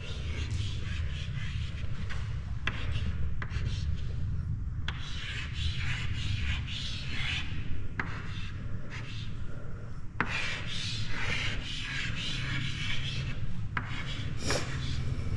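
Continuous rubbing and scuffing noise with a low rumble underneath, broken by about six sharp clicks spread through it.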